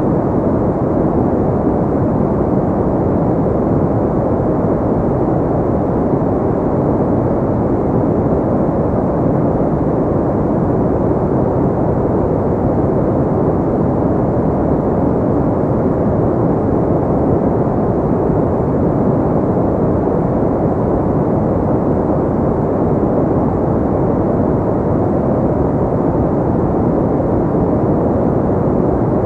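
Steady synthetic pink noise, an even unchanging hiss with most of its weight low and in the middle, dark and rumbling, with little on top.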